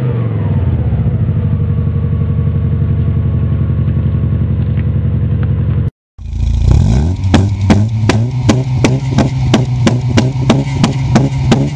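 Car exhaust sound test: an engine settling back from a rev to a steady idle through its exhaust. About six seconds in there is a brief cut to another car's engine, which rises and then holds steady under a regular beat of sharp clicks, about three a second.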